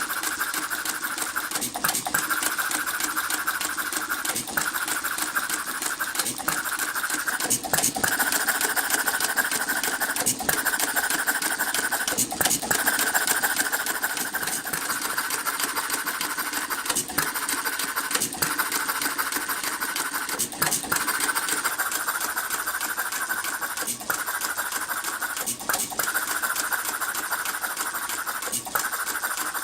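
Half-scale model Economy gas engine, a hit-and-miss engine, running with a fast, steady mechanical clatter, broken by a brief dip every two seconds or so.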